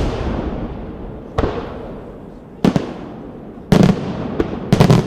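Fireworks exploding in a display: five loud bangs roughly a second apart, the last ones coming in quick doubles, each followed by a rolling, rumbling echo.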